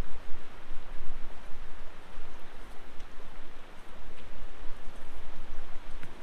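Heavy rain and running water: a steady hiss with scattered drop ticks over a low rumble.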